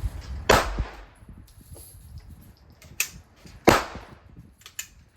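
Handgun shots: a loud shot about half a second in, a quieter one about three seconds in, and another loud one shortly after, each with a short echo tail. A few light clicks follow near the end.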